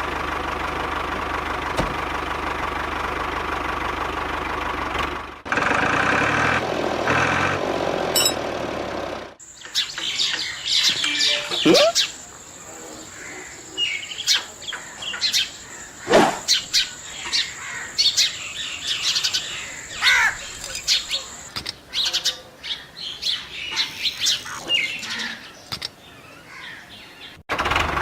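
A steady engine runs for about nine seconds, changing character about five seconds in, then cuts out. Birds chirp and tweet for the rest, with a steady high whine under the chirping for its first twelve seconds.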